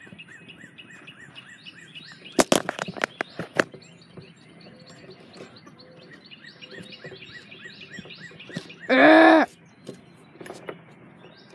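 A bird chirping over and over, about three quick chirps a second. About two and a half seconds in come a cluster of sharp clicks and knocks as the camera is handled and wrapped onto a flexible tripod. About nine seconds in there is a brief, loud vocal sound that rises and falls in pitch.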